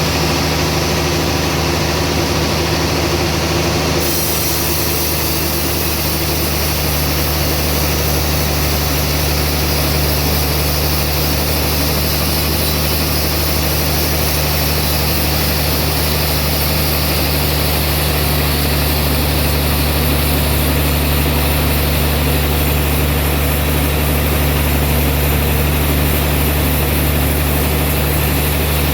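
Sawmill band saw machinery running steadily with a deep, even engine hum; the sound changes abruptly about four seconds in.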